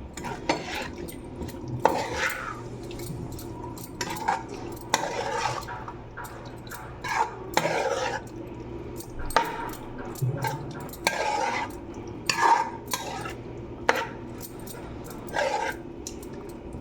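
A spoon scraping and clinking against a bowl in repeated strokes as raw chicken pieces are stirred into spiced yogurt marinade.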